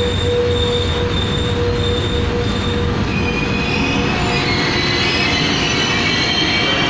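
Trenitalia Frecciabianca passenger train rolling past along the platform: a steady rumble of wheels on rail with high, pulsing squealing tones, and from about three seconds in a high whine rising in pitch.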